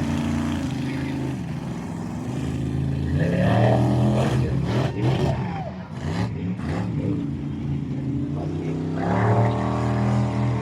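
Monster truck engine revving hard, its pitch surging up and falling back several times, with a few sharp knocks in the middle.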